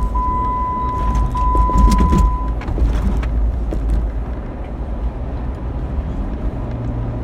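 Steady engine and road rumble inside a moving pickup truck's cab, with a continuous high seatbelt-reminder beep that stops about two and a half seconds in, along with a few light clicks.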